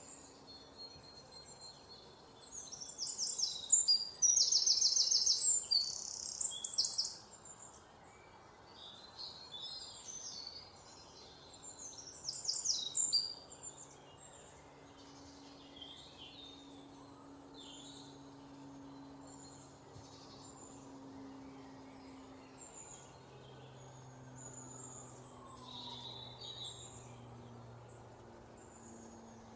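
Several songbirds chirping and trilling at once, with short, high, quick calls. There are two loud bursts of rapid trills, one a few seconds in and one about halfway, and a faint low steady hum underneath in the second half.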